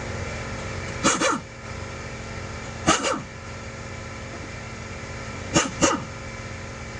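A dog barking: a quick pair of short barks, a single bark, then another pair, over a steady background hum.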